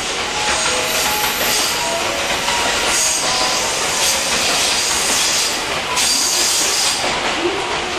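Electric train running slowly through the station tracks: wheels clicking over rail joints and points, with short squeals from the wheels.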